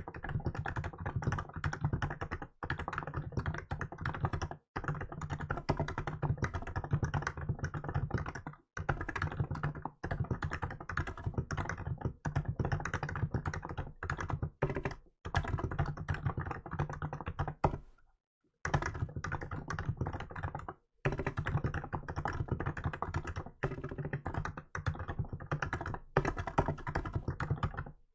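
Continuous fast typing on a Hansung GK868B electrostatic capacitive (contactless) keyboard fitted with milk keycaps: a dense run of key clacks broken by a few brief pauses, the longest about two-thirds of the way through.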